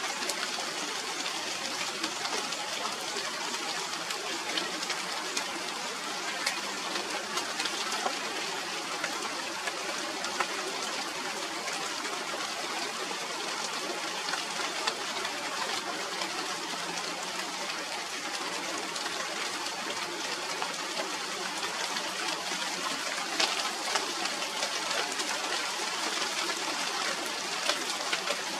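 Steady rain falling on the foliage of a China doll tree (Radermachera sinica): an even hiss with many small scattered drip ticks.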